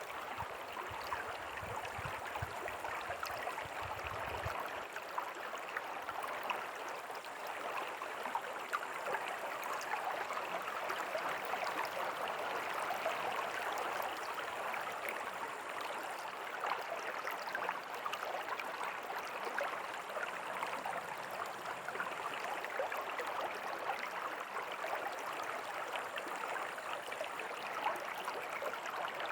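River water flowing steadily over rocks, an even rushing and gurgling. A faint low rumble sits under it for the first few seconds.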